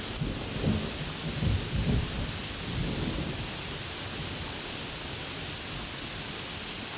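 Thunderstorm: steady rain hiss with thunder rumbling low in the first few seconds. The thunder fades out about halfway through, leaving the rain alone.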